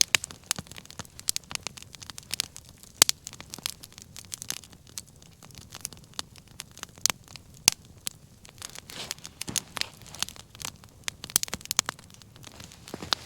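Wood fire crackling: irregular sharp pops and snaps, a few of them louder, over a faint steady hiss of burning.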